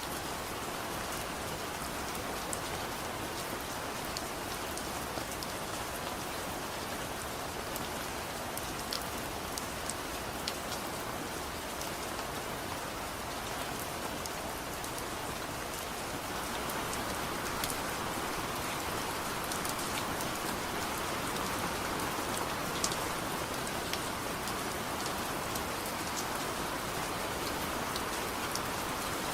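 Steady soft rain: an even hiss dotted with faint scattered ticks, growing slightly louder about halfway through.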